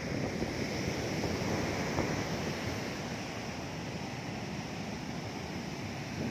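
Heavy monsoon surf of the Arabian Sea: big waves breaking and washing up the beach in a continuous rushing wash, swelling a little about one to two seconds in.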